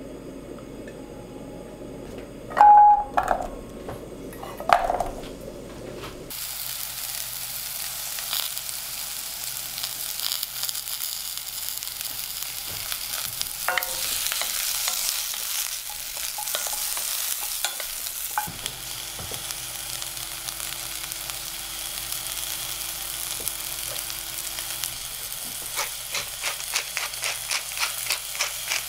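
Two sharp clinks about three and five seconds in, then butternut squash cubes sizzling as they fry in hot olive oil in a pan, stirred with a wooden spoon. Near the end a pepper grinder clicks rapidly and evenly.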